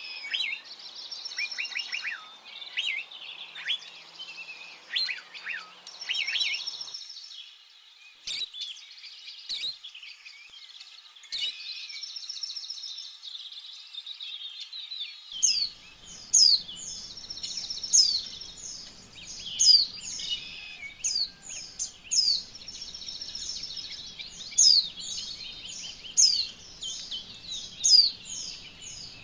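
Small birds chirping and twittering continuously. In the second half, sharp down-sliding chirps repeat about once a second, over a faint steady hiss.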